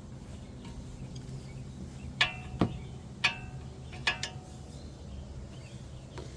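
Several sharp metal clinks with a brief ring, from steel tools and brake hardware knocking together, bunched in the middle; a steady low hum runs underneath.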